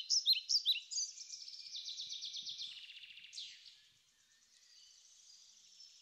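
Small songbird singing high, sharp chirps about four a second, running into a fast trill and one falling note, then fading to near quiet about four seconds in.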